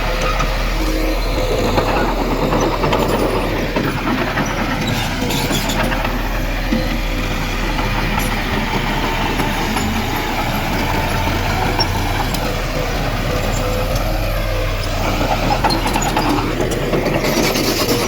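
Heavy diesel earthmoving machinery running steadily: a constant low engine drone with a steady mid-pitched whine over it.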